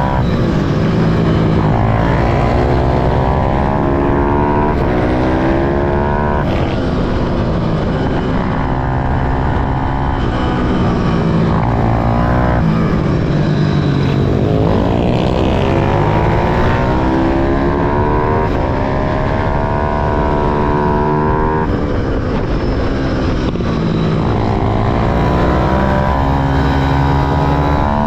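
Small motorcycle engine of a pit bike or minimoto accelerating hard again and again, its pitch climbing for several seconds each time and then dropping sharply as the throttle is shut, about four times.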